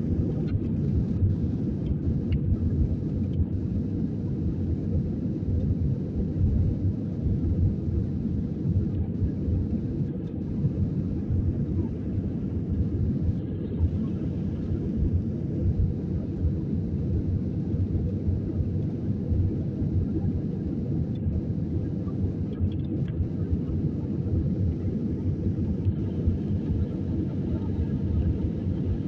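Steady low rumble of an Airbus A320-214's engines and airflow heard inside the passenger cabin, even throughout.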